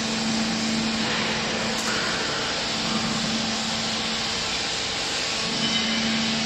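Automatic hydraulic clothing baler running: a steady machine hum with one constant low tone under an even noise.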